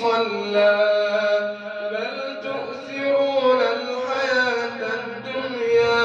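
A man's voice reciting the Quran aloud in a melodic chant (tajweed), drawing out long notes that rise and fall.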